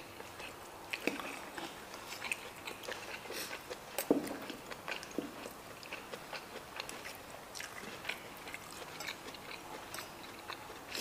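People chewing and biting into a stir-fry of crunchy young corn and chicken gizzards and liver, with scattered small clicks of a spoon and fork against plates, the sharpest about four seconds in.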